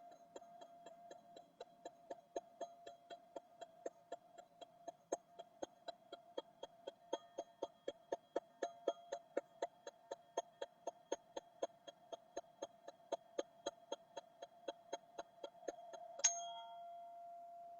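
Black ZenTube tapped rapidly and evenly, about four light strikes a second, over its steady ringing tone. Near the end it is struck once more firmly and rings on.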